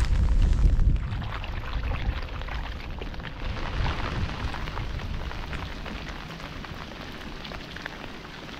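Steady rain falling, a dense patter of many small drop ticks that does not let up. A strong low rumble sits under it in the first second, then the sound settles and slowly grows softer.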